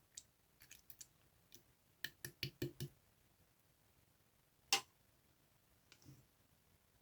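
Slime being handled: short, sticky clicks and pops, with a quick run of about five a couple of seconds in and one louder pop near five seconds in.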